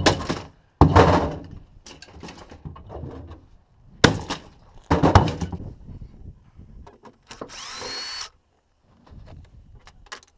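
Refrigerator parts being knocked apart with hand tools: four heavy knocks with clattering tails and lighter knocks in between, then a short high squeal near eight seconds.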